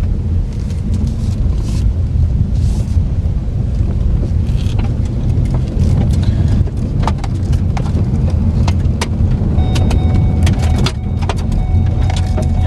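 Inside the cabin of a 2014 Ford Focus SE on the move: steady low road and engine rumble, with repeated light clicks and rattles through the second half. A steady chime tone, the seatbelt reminder, starts near the end.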